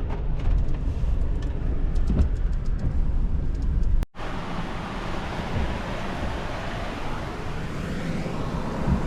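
Rain and wind rumbling on the microphone with scattered sharp drop ticks; it cuts off about four seconds in. Then a car drives with steady road and engine noise.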